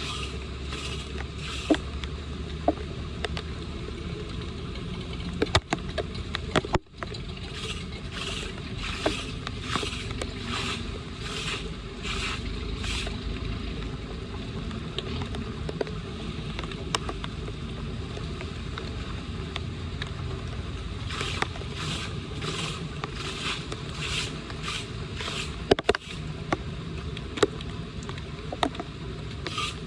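Repeated scraping strokes, in runs of about two a second, over a steady wash of water, as debris is cleared from a flooded storm drain.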